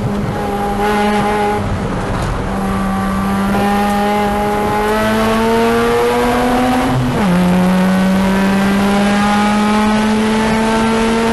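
Car engine heard from inside the cabin, accelerating hard with its pitch climbing, an upshift about seven seconds in, then climbing again. Wind and road noise run underneath.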